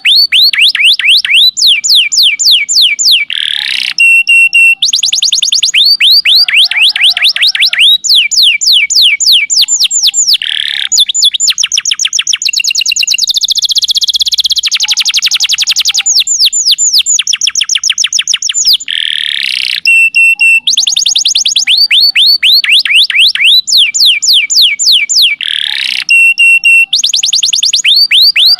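Domestic canary singing non-stop: long rapid trills of repeated downward-sweeping notes, broken by short steady whistled notes, with the same phrases coming round again every few seconds.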